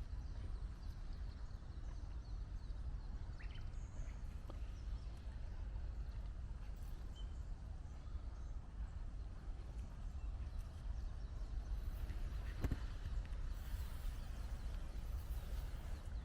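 Forest ambience with a steady low rumble of wind or handling noise on the microphone, scattered faint clicks of steps on the forest floor, and a couple of brief high chirps.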